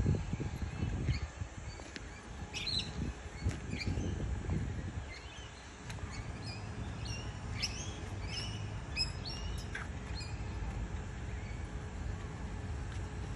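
Birds chirping: many short, irregular high calls, some sliding in pitch, over the first ten seconds, above a steady low rumble.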